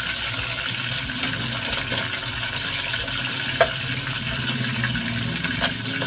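Chicken wings deep-frying in hot oil in a steel pot: a steady sizzle, with a few sharp clicks from metal tongs, the loudest about three and a half seconds in.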